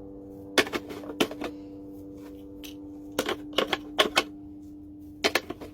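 Sharp clicks and taps in small clusters of two or three, over a steady low hum.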